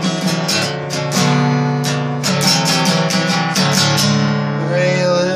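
Acoustic guitar being strummed, chords struck in quick repeated strokes that ring on.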